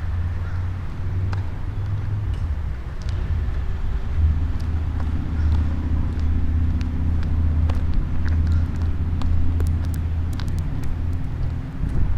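Low steady rumble of a car running, with a faint engine hum joining about four seconds in and scattered light clicks.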